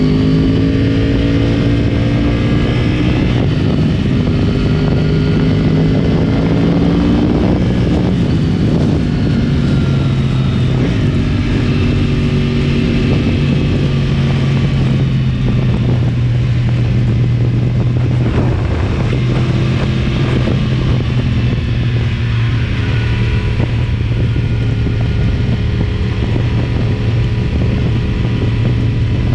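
2010 Yamaha R1's crossplane inline-four through a decatted Akrapovic exhaust, running under way. The engine pitch climbs through the first several seconds, then holds steady for the rest.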